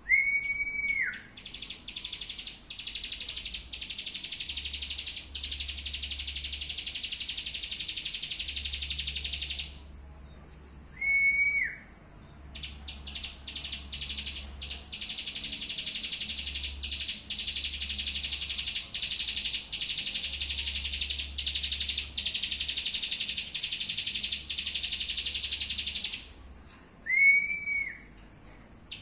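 Pet songbird singing long, fast, chattering song phrases. Three loud, clear whistled notes break in, one at the start, one about eleven seconds in and one near the end; each holds one pitch for about a second and drops off at its end.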